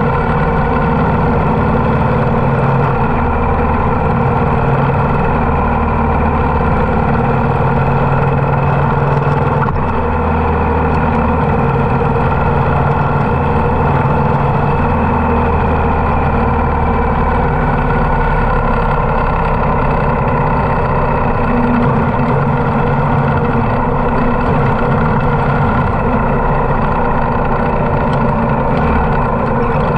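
Harley-Davidson motorcycle engine running steadily under way, its low note stepping up and down every few seconds with the throttle.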